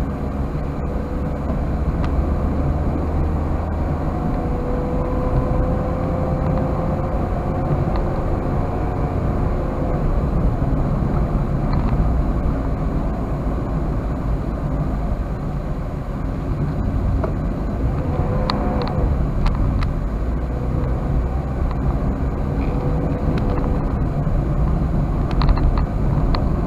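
Toyota Wigo driving, heard from inside the cabin: a steady low rumble of engine and road noise, with a faint engine tone that drifts slowly in pitch.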